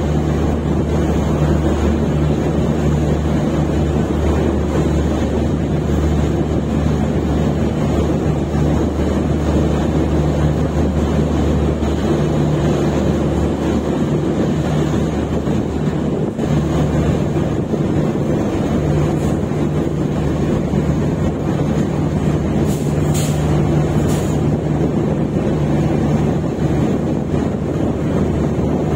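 Indian Railways LHB passenger train running at speed: a loud, steady rumble of wheels on the track with a constant low hum, and two brief high clicks about three-quarters of the way through.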